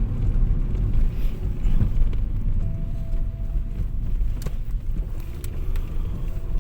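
Car cabin noise while driving: a steady low rumble of engine and tyres on the road, with a few scattered sharp ticks.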